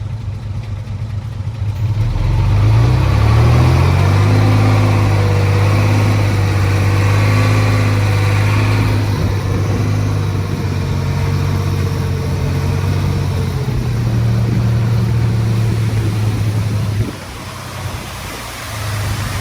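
Heavy-equipment diesel engine revving up about two seconds in and then running steadily under load. It drops back suddenly near seventeen seconds and picks up again near the end.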